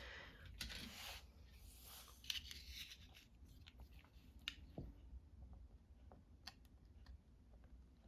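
Faint paper handling at a desk: soft scratching and rustling over the first few seconds, then scattered small clicks, all very quiet.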